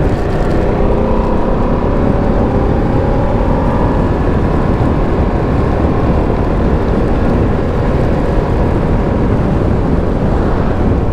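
Ducati Streetfighter V2S V-twin motorcycle running on the road, its engine note climbing gently for the first few seconds, under a heavy, steady rush of wind on the helmet microphone.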